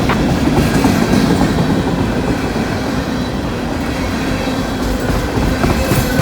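Freight cars of a long train rolling past with a steady rumble of steel wheels on rail. A few sharp clicks come from wheels passing over rail joints, most plainly near the end.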